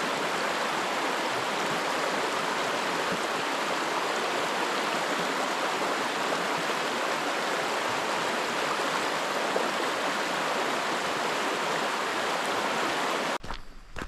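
Steady rush of running water from a stream, cutting off suddenly near the end.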